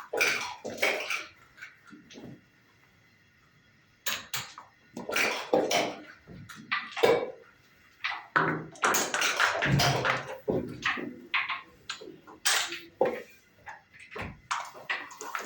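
Backgammon checkers and dice clacking on a wooden board in a quick run of irregular clicks and knocks, with a short lull about two seconds in.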